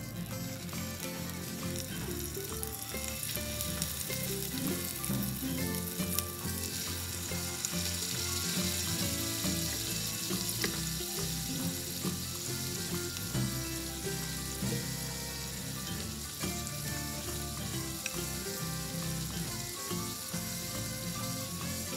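Salmon fillets frying in butter and oil in a cast-iron grill pan, a steady sizzle that gets louder about six seconds in. Background music plays underneath.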